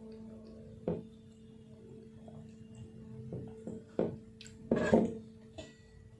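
Eating by hand from a thali: a few scattered smacks and clicks of fingers, mouth and plate, the loudest about five seconds in, over a steady low hum.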